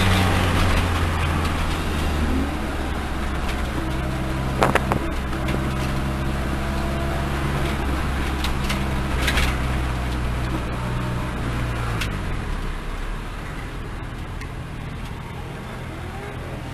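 Car engine running at low, steady revs, heard from inside the cabin, its pitch dropping a little about twelve seconds in. Two short, sharp knocks sound about five and nine seconds in.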